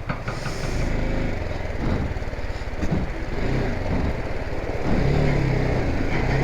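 BMW G 310 GS motorcycle's single-cylinder engine running as the bike is ridden, with a dense, steady low rumble and a steadier engine note in the last second or so.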